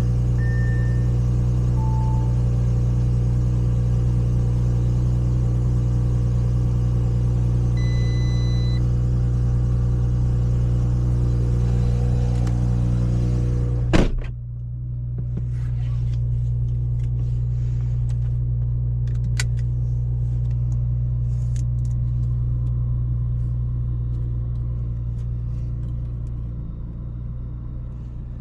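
Audi S5 running at a steady pitch, a low engine and road drone, with a short beep about eight seconds in. About halfway there is a sharp click, after which the hiss drops away and the low drone carries on, easing off near the end.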